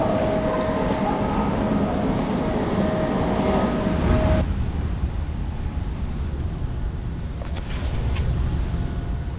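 Passenger rail car running, heard from inside: a steady rumble and rush with a high, steady whine. About four seconds in, it switches suddenly to a lower, duller rumble.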